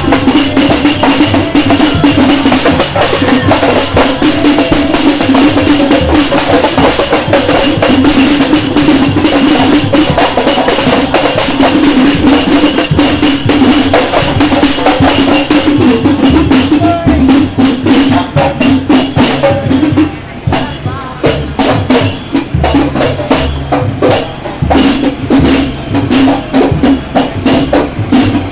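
Very loud music played over a large sound system, with steady jingling tambourine-like percussion over a pulsing low beat. The sound turns more choppy after about twenty seconds.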